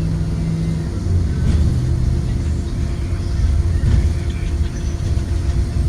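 Ride aboard a Blue Bird Vision school bus under way: its Ford 7.3-litre V8 engine and heavy road rumble. A steady drone cuts off about a second in, and a lower one carries on for a moment after it.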